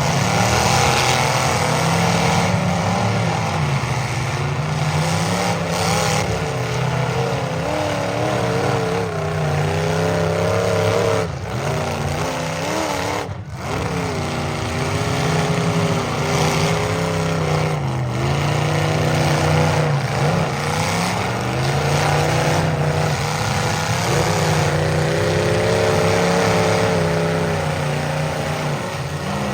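Engines of several full-size demolition derby cars running hard, revving up and down as the cars drive and ram one another, with a short lull about halfway through.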